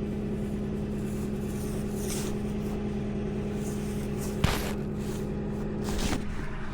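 Tow truck running steadily, a constant even hum, with one sharp knock about four and a half seconds in.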